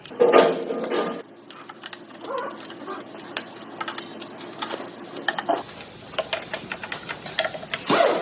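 Engine assembly-line work sounds: a short machine hum in the first second, then light irregular clicks and ticks of tools and parts being handled, growing busier in the last few seconds.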